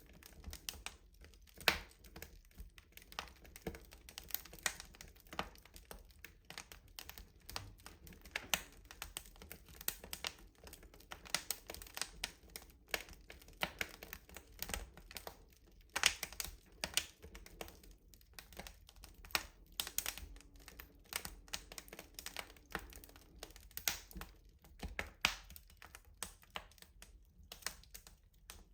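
Wood fire crackling in a rustic stove: irregular sharp pops and snaps, several a second and varying in loudness, over a faint low rumble.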